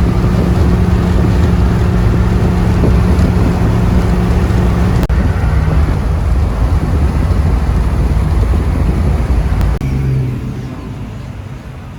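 A motor vehicle's engine running steadily with road noise while driving, loud and even; its pitch shifts about five seconds in and the sound drops away about ten seconds in.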